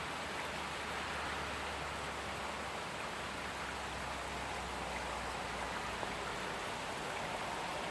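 Steady rain falling, an even hiss of drops, with a faint low hum underneath that fades about six seconds in.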